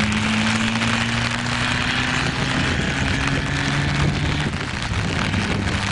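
Abarth 750 GT Zagato's small four-cylinder engine running at steady revs, easing off slightly a little before halfway, under a steady hiss.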